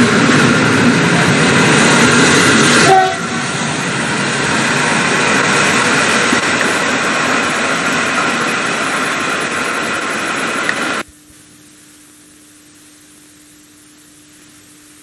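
Passenger train's coaches rolling out along the platform, wheels rumbling and clattering on the rails. About three seconds in the sound drops suddenly in level. About eleven seconds in it cuts off abruptly, leaving only a faint steady low hum.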